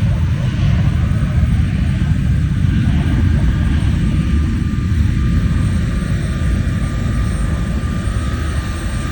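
Airplane engines at takeoff power: a loud, steady low rumble that eases slightly near the end.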